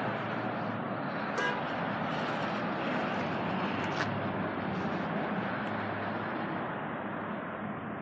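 Steady outdoor background noise, with a short pitched chirp about a second and a half in and a sharp click about four seconds in.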